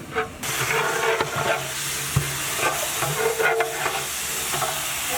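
Chicken pieces and spice masala sizzling in hot oil in a pot while being stirred and scraped through, with irregular stirring strokes over a steady sizzle that swells about half a second in.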